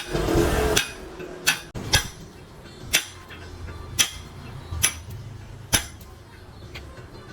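Hammer tapping on metal machine parts, about one sharp tap a second, after a brief rush of noise at the start.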